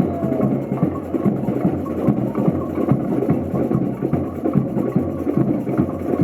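Samba percussion band playing a fast, driving rhythm, with deep drum beats under many rapid drum and shaker strokes.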